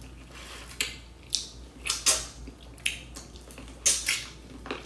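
Close-miked mukbang eating: wet chewing and lip smacks while biting into a soft piece of seasoned seafood-boil food, about two sharp smacks a second at an uneven pace.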